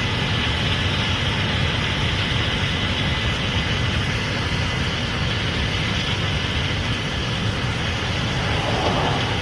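Case IH Axial-Flow 8250 combine running steadily while harvesting corn: a constant low rumble with a steady hiss and a faint thin whine over it.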